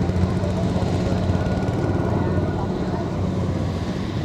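Small Kubota ZT155 tractor's engine running steadily.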